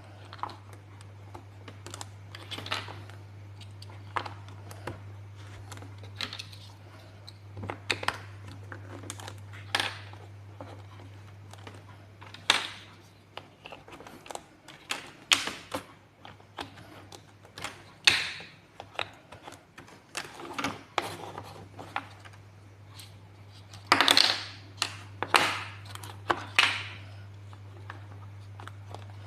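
Plastic building blocks clicking and clattering in irregular sharp clicks as pieces are handled and pressed together, over a steady low hum.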